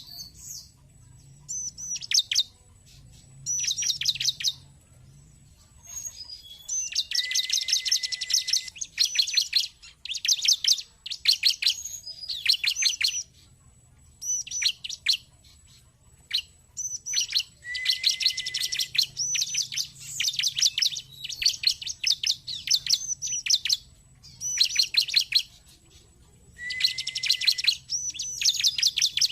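Bar-winged prinia (ciblek) singing: rapid chattering phrases of sharp, high notes, repeated every second or two with short pauses between. Several phrases end in a brief steady lower whistle.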